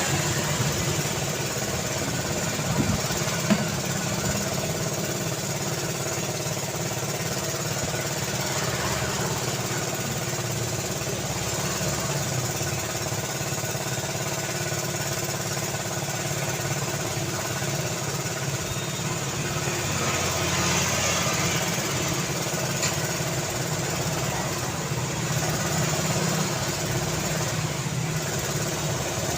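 City street traffic: a steady mix of car engines running and tyre noise, with a couple of short knocks a few seconds in.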